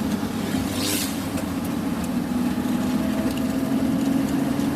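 Diesel engine of a loaded goods truck running steadily on the road, with a brief hiss about a second in.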